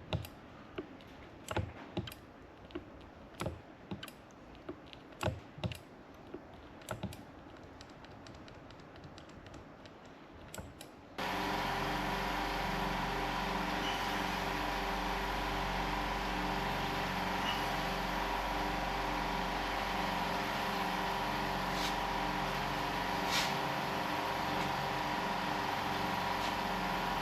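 Scattered light clicks and taps for about eleven seconds, then a small motor-driven pump starts abruptly and runs steadily with a rhythmic pulsing hum, the kind of pump that works a vacuum brake bleeder.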